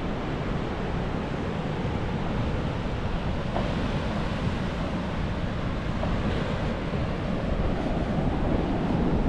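Wind rushing and buffeting over a phone's microphone as a steady, rough noise.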